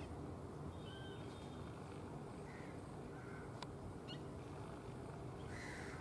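Indian roller giving a short harsh, crow-like call near the end, over a steady low background rumble. A few faint short high notes and a single click come earlier.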